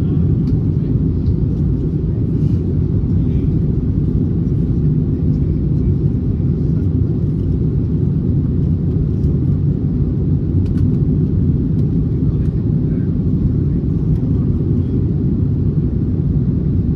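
Steady low cabin rumble of an Airbus A321neo in flight, the engines and airflow heard from inside the passenger cabin, with a few faint clicks.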